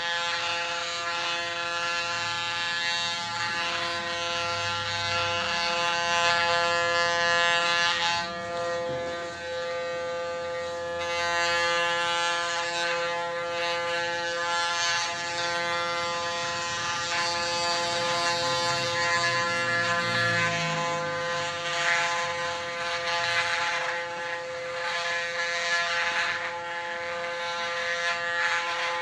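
Electric hair clipper, set to 0.8 mm, running with a steady hum while its blades cut hair close to the scalp for a buzz cut.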